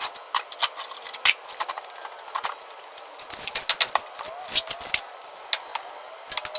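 Irregular clattering and clinking of small tools, parts and junk being handled and moved around during workshop cleanup: a quick string of sharp light knocks.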